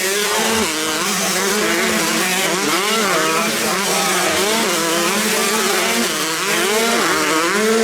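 Several 125cc motocross bikes running and revving together, their overlapping engine notes repeatedly rising and falling in pitch over a steady drone.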